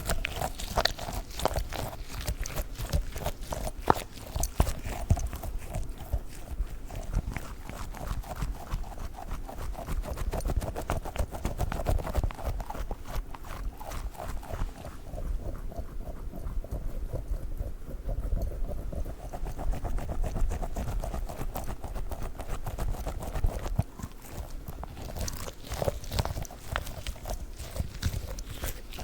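Fast, dense tapping and handling of a squishy dog toy. The quick taps run on continuously and turn duller for a few seconds past the middle.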